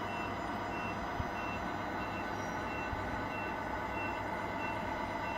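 Scale RC truck sound unit playing a steady diesel engine hum, with a short, high reversing beep repeating about every two-thirds of a second.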